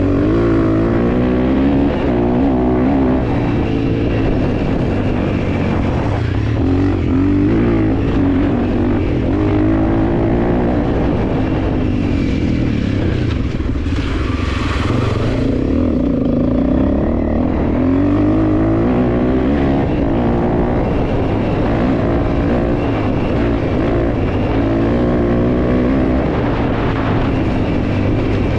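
Honda CRF300L's single-cylinder four-stroke engine running under load, its pitch rising and falling again and again as the throttle is opened and eased off. About halfway through, a brief hiss rises over the engine for a second or so.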